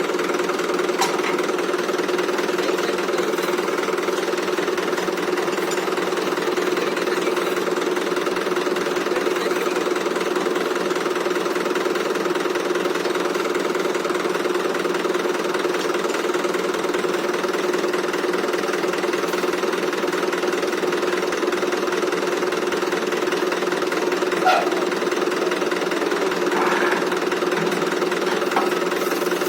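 Tractor diesel engine running steadily at constant speed, a continuous even drone, with a few faint clanks in the last few seconds.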